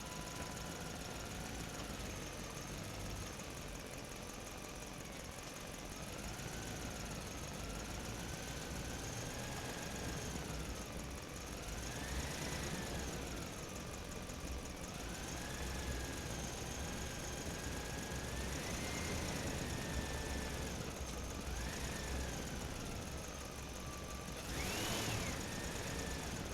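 Small electric motor of a toy truck whining, its pitch rising and falling again and again as it speeds up and slows down, over a low rumble; near the end it briefly climbs higher.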